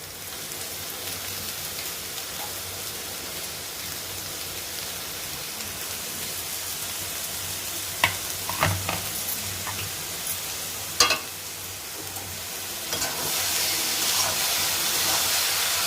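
Sizzling in a frying pan of hot oil, melted sugar and vegetables, stirred with a spoon that knocks against the pan a few times about eight and eleven seconds in. The sizzle grows louder near the end as cooked basmati rice goes into the hot pan.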